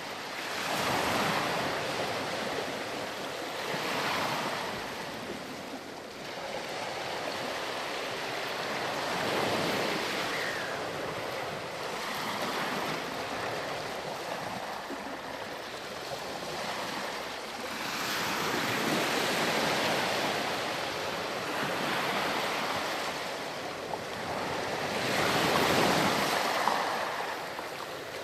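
Sea waves breaking and washing up a sandy beach, a steady rush of surf that swells and eases every few seconds, loudest near the end.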